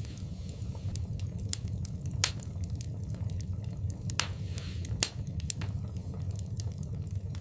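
Wood fire burning in a fireplace: a steady low rumble of flames with scattered sharp crackles and pops, the loudest a little after two seconds and at about five seconds, and a short hiss near four seconds.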